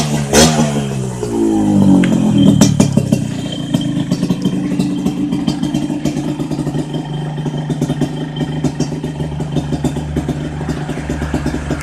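Yamaha RX-King two-stroke single-cylinder engine breathing through an underslung aftermarket exhaust. The revs fall away over the first two seconds, then it settles into a steady, rapidly pulsing idle.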